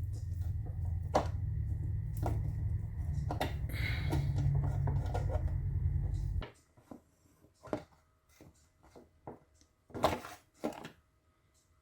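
Hand tools and metal parts clicking and knocking against each other during engine work, over a steady low rumble that stops suddenly about six seconds in; after that only scattered sharp clicks and knocks remain.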